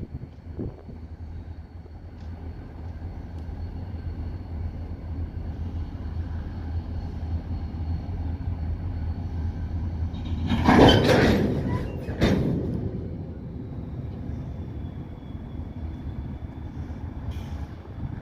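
Diesel locomotive running with a steady low rumble that slowly grows louder. About ten and a half seconds in comes a loud metallic clash lasting about a second, then a second sharp bang just after: the couplers slamming together as the locomotive joins the freight cars.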